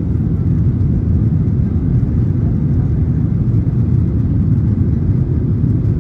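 Steady low drone of a Boeing 737-900ER's two CFM56-7B26 turbofans and airflow, heard inside the passenger cabin during the departure climb.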